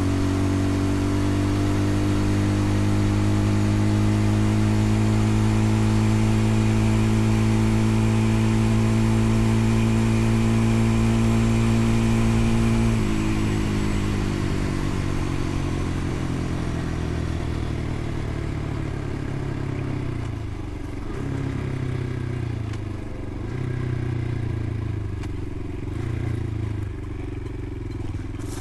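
Motorcycle engine running under steady throttle, its pitch creeping up, then dropping sharply about halfway through as the revs fall away. The engine runs quieter after that, with a few short rises and falls in revs near the end.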